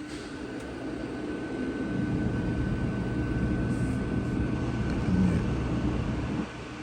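Steady mechanical drone with a constant high whine over a low hum. It grows louder about two seconds in and eases off shortly before the end.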